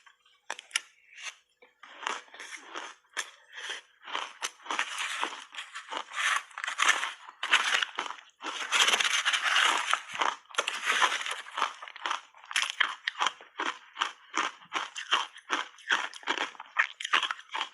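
Crunchy shaved ice being bitten and chewed: a fast run of separate crunches, turning into a long dense stretch of continuous crunching through the middle, then back to quick single crunches.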